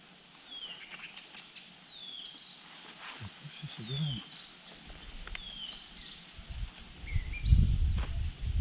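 A songbird calling over and over, a short falling-then-rising note about every second and a half. A low rumble comes in about five seconds in and grows loud near the end.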